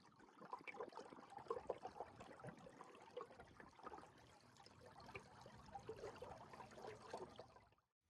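Very faint water sounds: small, irregular trickles and splashes, close to silence.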